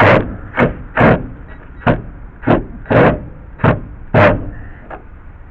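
About nine short, sharp scraping strokes, roughly half a second apart, as a tool clears packed dirt out of a deck screw's head so the driver bit can seat in its slot.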